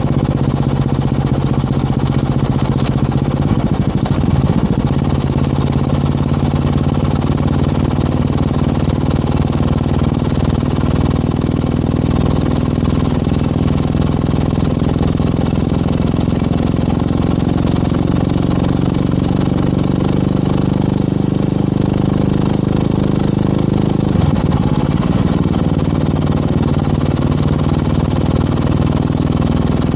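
Yamaha WR250R's single-cylinder four-stroke engine, breathing through an FMF PowerCore 4 muffler, running steadily while riding. The engine note shifts briefly about three-quarters of the way through.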